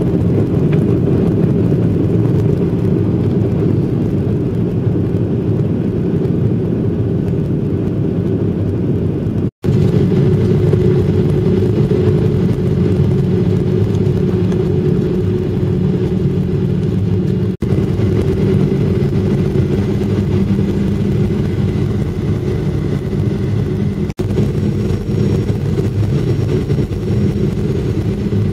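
Steady low rumble of an airliner's engines and airflow heard from inside the passenger cabin during the approach. It drops out for an instant about ten seconds in and twice more later.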